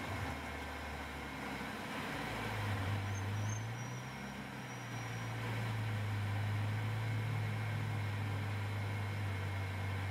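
Porsche 718 Cayman GT4 Clubsport's flat-six engine heard from inside the cockpit as the car rolls to a stop, settling about two seconds in to a steady low idle drone.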